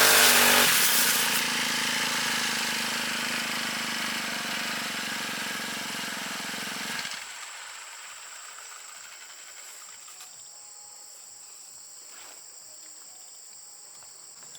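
A lawn mower's small engine drops from high revs to a lower, quieter running about a second in, then cuts out at about seven seconds. Insects keep up a faint, steady high buzz afterwards.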